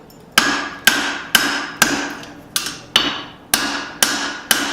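Hand hammer striking a steel drift through the hot eye of a small hatchet head on a swage block, nine blows about two a second. Each blow is a sharp metallic strike that rings on briefly, as the drift is driven to open the handle eye.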